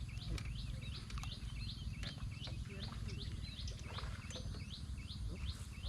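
A bird repeating a short rising chirp about two to three times a second, over a steady low rumble, with a couple of faint clicks.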